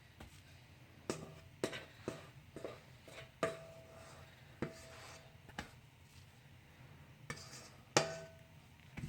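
A utensil knocking and scraping against a mixing bowl as the last cookie dough is scraped out: about a dozen irregular knocks, several of them leaving the bowl ringing briefly, the loudest near the end.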